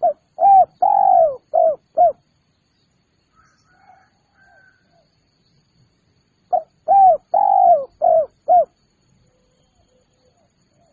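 Spotted dove (tekukur) cooing: two phrases of five notes each, about six seconds apart, the third note of each phrase drawn out longer than the others. Faint chirps of another small bird come between the phrases.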